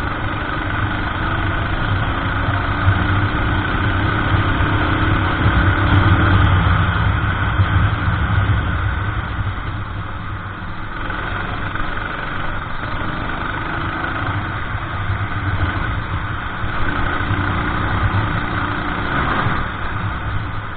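Kart engine running under race load: it revs up steadily for about six seconds, drops off, then pulls up again.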